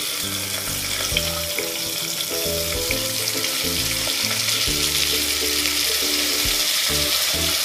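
Cauliflower florets sizzling steadily in hot oil and ghee in a pressure cooker, with soft background music of slow, held low notes underneath.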